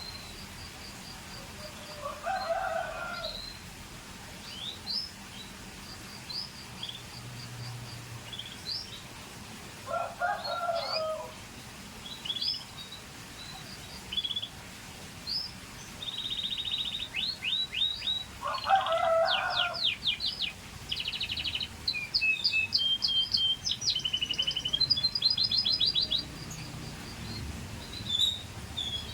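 Scotch Fancy canary: short high chirps for the first half, then, about halfway in, a continuous stretch of song made of rapid trills and rolls. Three times a lower call of about a second each breaks in.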